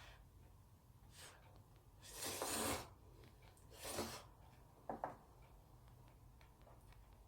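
Jjapaghetti cup noodles slurped up, once about two seconds in for under a second and again, shorter, about four seconds in, followed by a short click about five seconds in.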